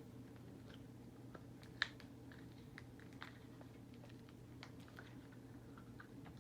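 Faint, scattered small clicks and taps of hands handling a plastic toy, with one sharper click a little under two seconds in, over a steady low hum.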